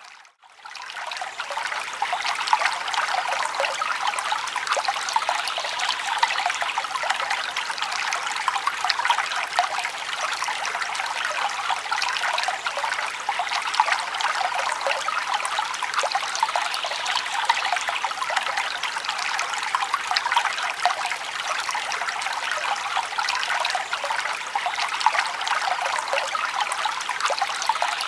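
Forest stream babbling and trickling steadily over rocks. A brief dip right at the start fades back in within about two seconds.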